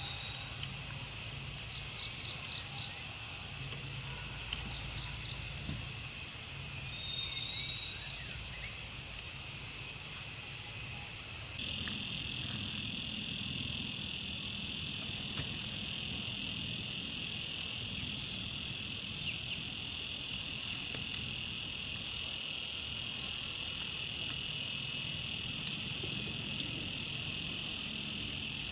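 Steady, high-pitched chorus of insects chirring. About twelve seconds in the chorus changes abruptly and a lower-pitched band joins it.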